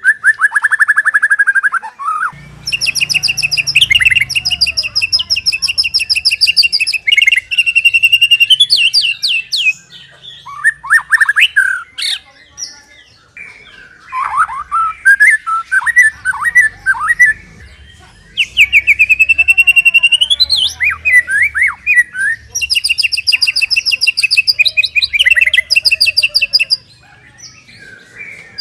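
White-rumped shama (murai batu) singing loudly in long, rapid trills of repeated high notes, broken by lower, varied whistled phrases.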